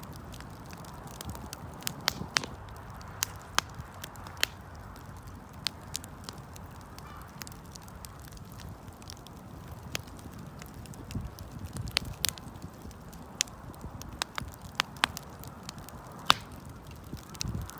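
Wood fire crackling, with irregular sharp snaps and pops over a soft steady rustle of burning.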